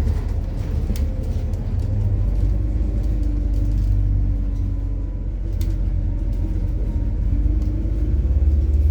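Ride noise of a MAZ-103 city bus running on methane: a steady low engine and road rumble with a faint whine that drifts slightly in pitch, and a few brief sharp rattles.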